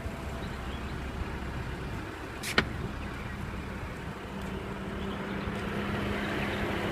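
The BMW 535i's 3-litre twin-turbo inline-six idling steadily, with one sharp click about two and a half seconds in from the hood latch being released.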